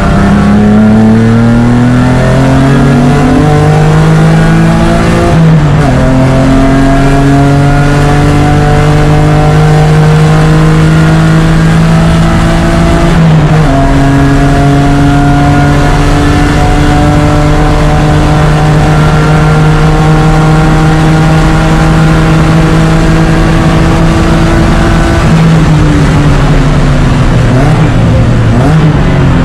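BMW E36 race car engine heard from on board, loud and pulling hard. It climbs in pitch and drops sharply on an upshift about five seconds in, and again about thirteen seconds in. It then rises slowly through a long pull, and falls away near the end with quick throttle blips on downshifts.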